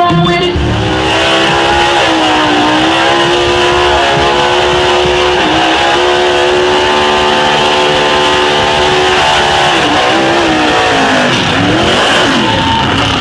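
Truck engine held at high revs, its pitch dipping briefly and climbing back several times, with a steady hiss above it.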